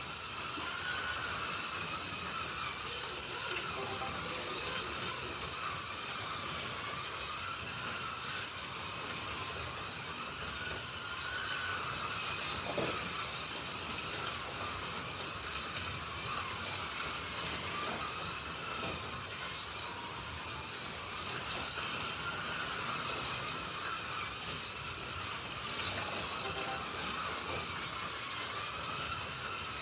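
Slot.it 1/32-scale slot cars running laps, their small electric motors whining with a pitch that rises and falls over and over as they speed up and slow through the corners. A single sharp click about 13 seconds in.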